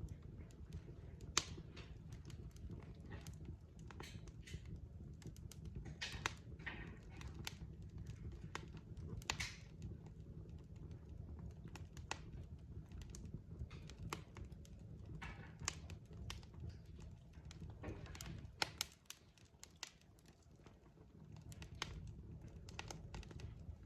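Log fire crackling in a fireplace: irregular sharp pops and snaps of burning wood over a low steady rumble, which fades briefly about three-quarters of the way through.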